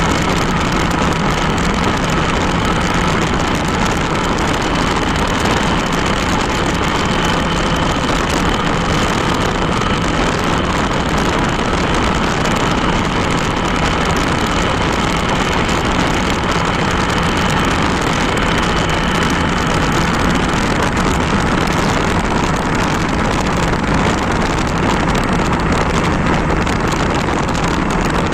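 Motorcycle running steadily while riding, with engine and wind noise mixed in a constant rush.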